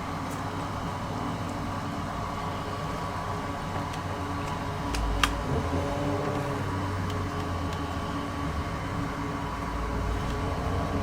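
A steady mechanical hum, with a single sharp click about five seconds in and a low rumble after it.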